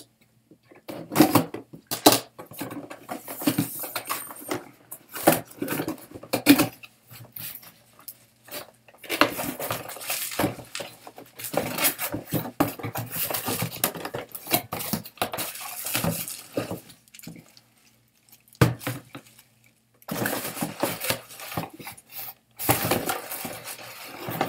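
Hands unpacking a boxed toy: packaging rustling and crinkling, with irregular clicks and knocks of hard plastic pieces being handled. The rustling comes in long stretches with short pauses between.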